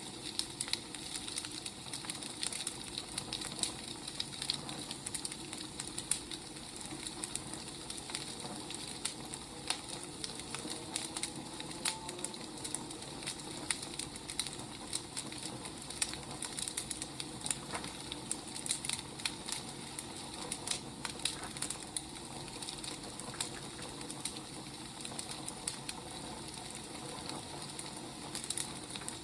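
Wood fire burning, with a steady hiss and irregular sharp crackles and pops from the logs.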